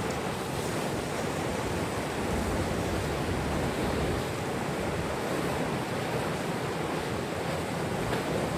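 Steady rushing of wind and water, an even noise with no distinct events.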